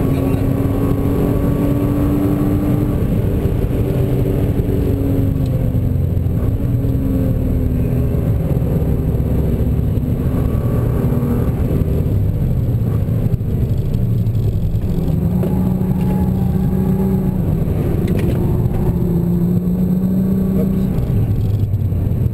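2011 Nissan GT-R's twin-turbo V6 heard from inside the cabin, with road and wind noise, as the car slows from high speed; the engine note falls gradually.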